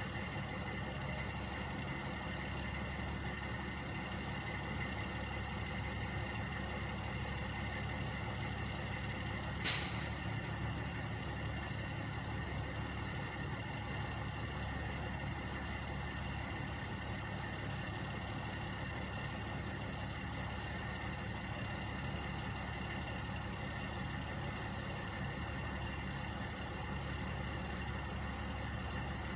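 Steady drone of idling truck engines with a few held tones over it, and a brief sharp hiss of air about ten seconds in.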